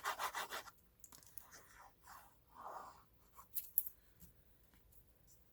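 Paper rubbed with quick back-and-forth strokes that stop under a second in, then soft paper rustling and handling with a few sharp clicks, the loudest just before four seconds in.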